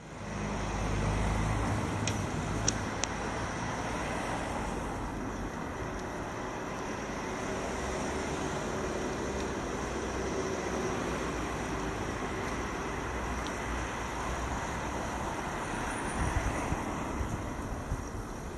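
Steady city street and traffic noise with a low rumble, heaviest in the first two seconds, and a few sharp clicks about two to three seconds in.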